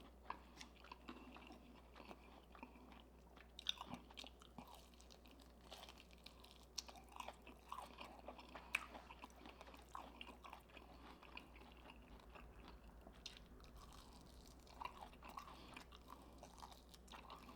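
A person faintly chewing and biting into a breaded fried chicken wing, with soft, irregular crunches and wet mouth clicks.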